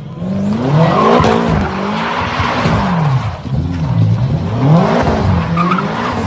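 A car engine revving up and falling back over and over, about once a second, with tyres squealing and skidding underneath.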